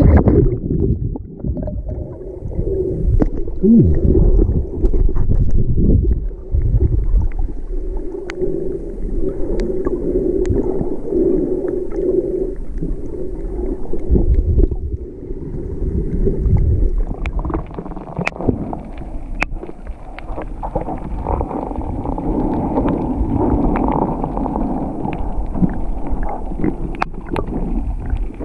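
Underwater sound picked up by a submerged camera while snorkeling: muffled water movement and gurgling bubbles with a low rumble, dotted with short sharp clicks.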